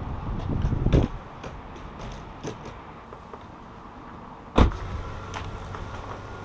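A door shuts with a solid thud about four and a half seconds in. Before it come rustling, handling noise and scattered small clicks.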